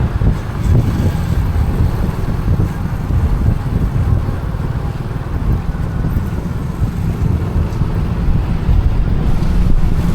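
Steady road and engine rumble of a moving car heard from inside the cabin, with wind buffeting the microphone.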